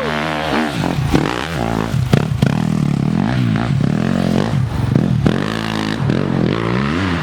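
Dirt bike engine revving up and down over and over as it is ridden at a hill climb, with a few sharp knocks and scrapes about a second or two in.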